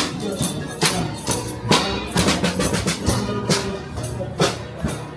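A live band playing a song, with percussion marking a steady beat about twice a second.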